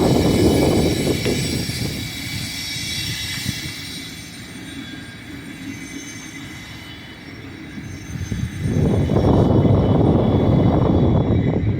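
Illinois Central freight train rolling by with a steady low rumble and a high-pitched squeal of wheels on rail that fades over the first few seconds. Wind buffets the microphone, loudest from about two thirds of the way in.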